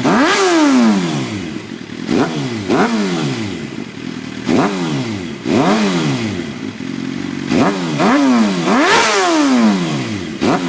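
2009 Suzuki GSX-R 750 inline-four, with its catalytic converter replaced by a mid pipe and a Yoshimura TRC slip-on, revved in a series of quick throttle blips. Each blip rises sharply in pitch and then falls back toward idle.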